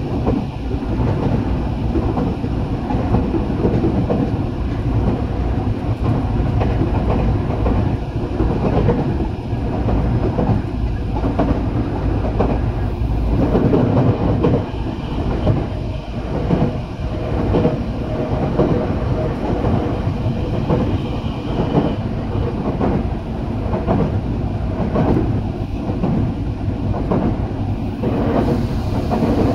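Eidan (Tokyo Metro) 8000 series electric train running steadily at speed, its wheels clattering over rail joints under a continuous running rumble.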